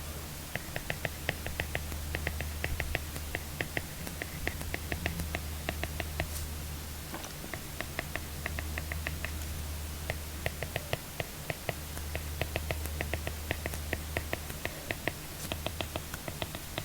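Apple Pencil tip tapping and scratching on an iPad screen fitted with a paper-feel film during handwriting, in quick runs of light clicks over a steady low hum.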